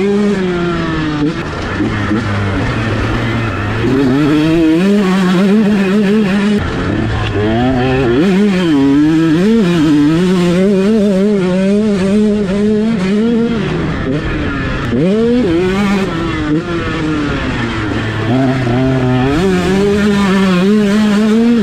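Off-road motorcycle engine revving hard while ridden, its pitch climbing and falling again and again as the throttle is worked and the gears change.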